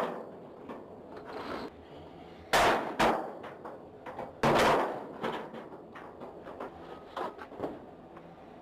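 Scrap metal clanging and crashing as old garage door parts are dumped, with three loud crashes about two and a half, three and four and a half seconds in, the last ringing for about half a second, among lighter knocks.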